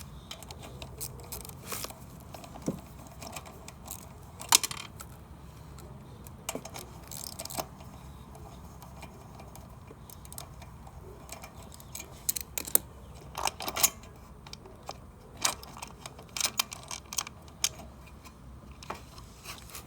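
Scattered metallic clicks and clinks of hand tools and loose metal parts as the 10 mm bolts and air filter housing come off a Honda HRU216 lawn mower, over a low steady hum. The sharpest clinks come about four and a half seconds in and around thirteen to fourteen seconds.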